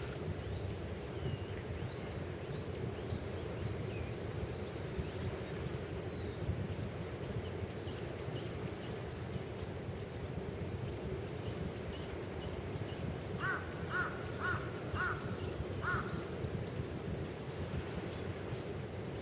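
Birds calling over a steady low rumble: many faint, short high calls throughout, and about two-thirds of the way in a run of five louder calls about half a second apart.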